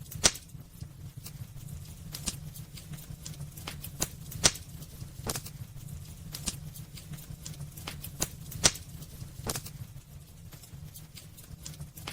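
Burning firewood crackling and popping in a fireplace: irregular sharp pops over a steady low rumble of the fire, the loudest pops coming shortly after the start, about four and a half seconds in, and near nine seconds.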